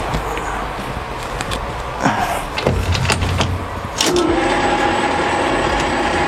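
Metal parts clicking and knocking as a lathe is set up; about four seconds in, the lathe's motor starts and runs with a steady hum and whine.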